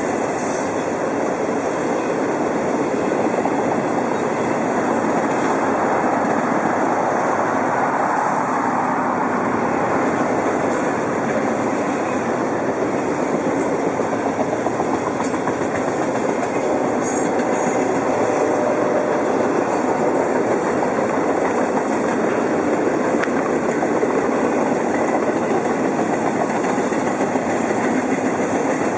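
Double-stack container freight train rolling past, a steady, continuous noise of its cars' wheels on the rails.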